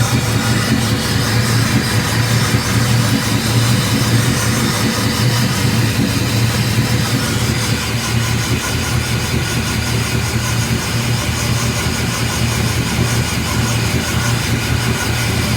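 Truck engine idling steadily while it warms up.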